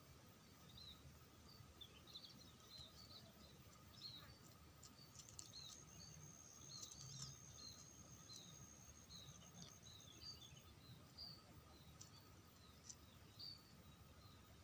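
Faint, scattered short chirps of small birds, with a thin, high, steady tone lasting several seconds in the middle.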